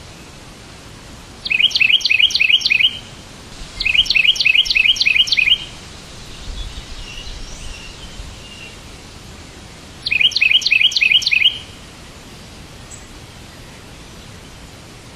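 A songbird singing three loud bursts of quick, repeated chirps, each lasting one to two seconds, with a few fainter calls between them, over a steady background hiss.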